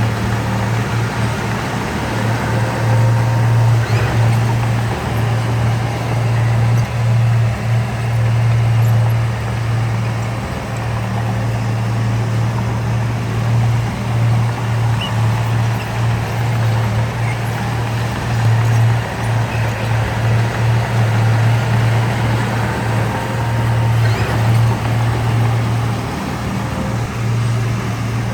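Heavy diesel engine of earthmoving machinery running steadily, a strong low hum that dips and comes back in level every few seconds.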